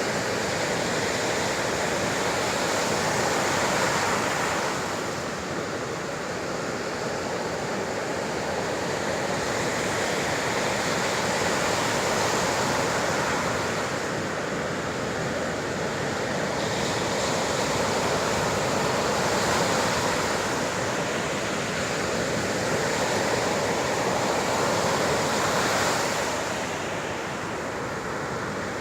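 Sea waves breaking and washing ashore, a continuous rush that swells and eases every several seconds.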